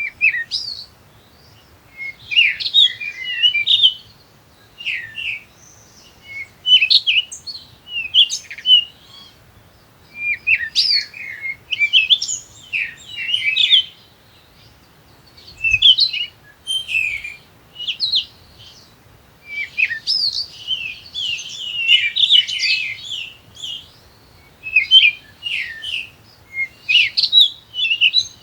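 A bird chirping and twittering in bouts of quick notes, each bout a second or two long, separated by short pauses.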